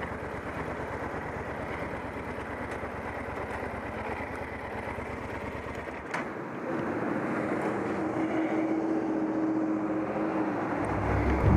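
Motorcycle on the road: steady engine and wind noise while riding. There is a sharp click about six seconds in, then a steady hum that joins for a few seconds.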